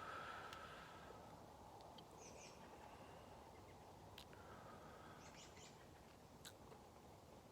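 Near silence with faint birdsong: a few short, scattered chirps and calls over a quiet outdoor background.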